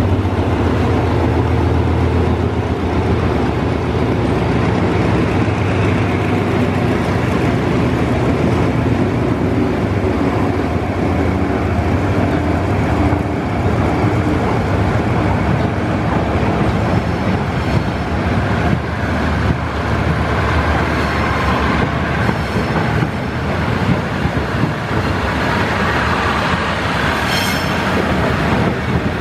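GE diesel-electric locomotive of the State Railway of Thailand's GEA class pulling out with its engine running in a deep, steady drone, which fades after about half the time. The passenger carriages then roll past with wheel and rail noise and thin, high wheel squeals in the second half.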